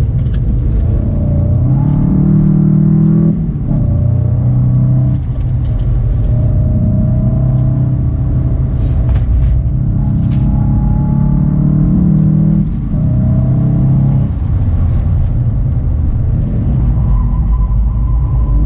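Volkswagen Golf VII GTI Performance's turbocharged 2.0-litre four-cylinder engine heard from inside the cabin at speed, its note rising under acceleration and dropping briefly a few times at gear changes or lifts, over a steady road rumble.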